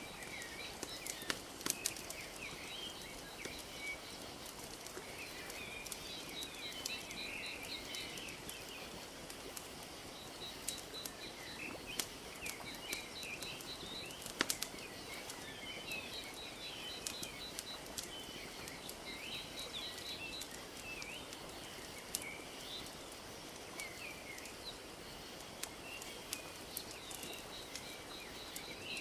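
Wood fire crackling with scattered sharp pops over a steady soft wash of lake water lapping, while small birds chirp and trill throughout.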